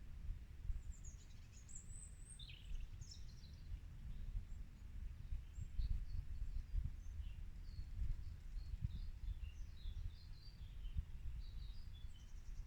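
Birds chirping and calling, with many short, high notes scattered through, over a steady, uneven low rumble.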